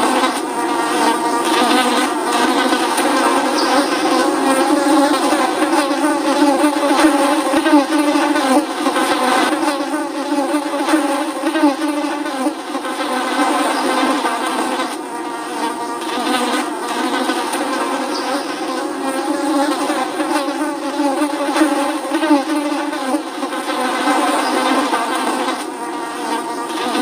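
Flies buzzing steadily, several wavering hums overlapping.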